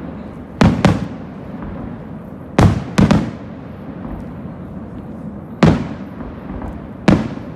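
Aerial firework shells bursting: six sharp bangs, the first four in quick pairs, each trailing off in a short rumbling echo.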